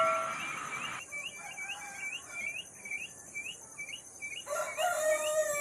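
Free-range village chickens: short high chirps repeating about two to three times a second, joined about 4.5 s in by a longer call that falls slowly in pitch. A bell-like ringing tone fades out in the first second, over a steady high hiss.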